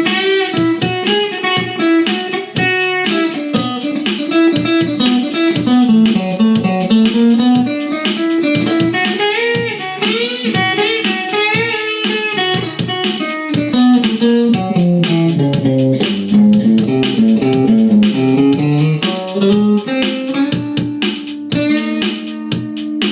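Electric guitar playing a blues lead: quick plucked single-note runs with bent notes, settling onto a held note near the end.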